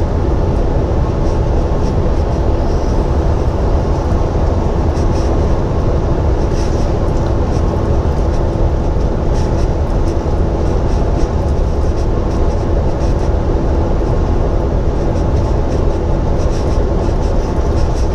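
Cab interior noise of a Volvo day cab truck driving along: a steady low drone of engine and road with an even hum running through it.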